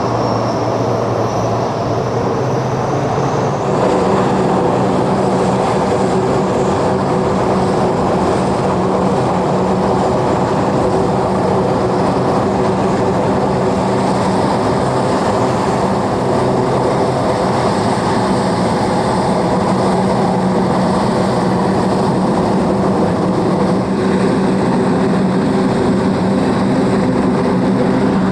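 Aircraft engines running steadily, a loud even drone with several steady pitched tones, growing a little louder about four seconds in.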